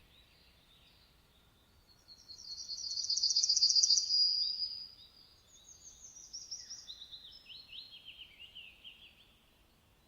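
Songbirds singing: a loud, rapid, high trill about two seconds in that fades out near the halfway point, followed by a softer series of quick, falling chirps.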